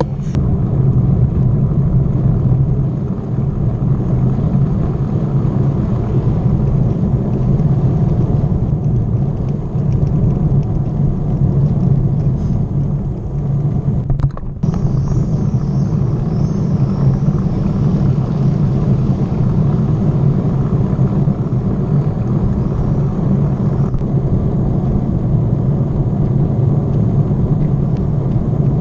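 Steady low rumble of riding a bicycle: wind buffeting the microphone and tyres rolling on the road, with a brief dip about halfway through.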